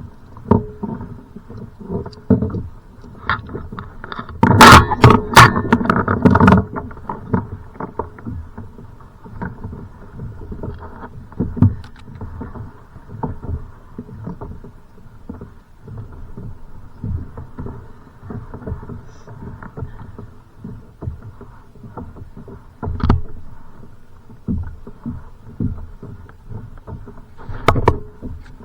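Choppy water slapping and knocking against a kayak's hull, with a burst of loud knocks and clatter about five seconds in and a couple of single sharp knocks later.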